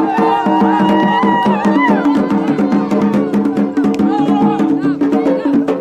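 Traditional Yemeni wedding drumming on tabl and marfa' drums, a dense fast beat under steady held tones and a wavering melody line.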